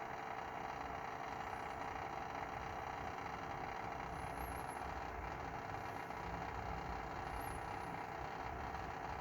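A steady whirring hum from a BMW F30 after its engine has been switched off, with one steady tone running through it. It is the sign of a component that stays powered after shutdown and drains the battery.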